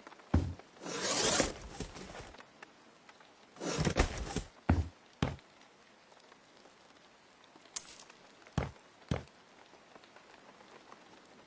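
Handling noises: a run of separate knocks and clinks, with two brief noisy scrapes, one about a second in and one about four seconds in.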